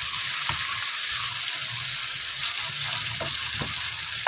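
Sliced onions, green chillies and chopped tomatoes sizzling steadily in hot oil in a metal pan, stirred with a wooden spoon that scrapes across the pan now and then.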